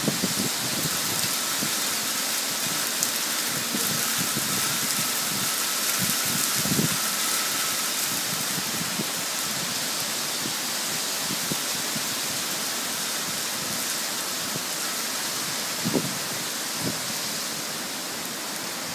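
Heavy rain falling steadily on garden foliage, a continuous hiss, with a few dull low thumps.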